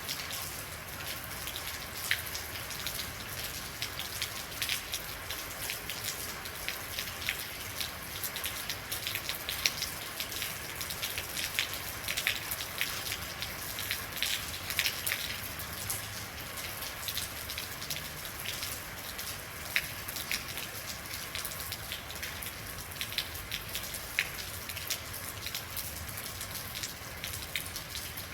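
Steady rain with many individual drops ticking sharply on a hard surface over an even hiss.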